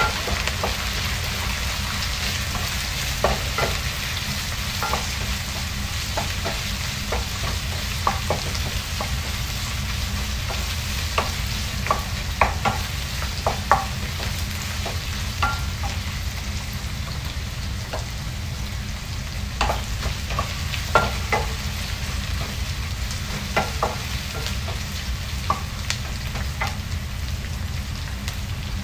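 Onions, ginger, garlic and chili sizzling as they sauté in a wok, stirred with a wooden spoon that knocks against the pan now and then in short, sharp clacks.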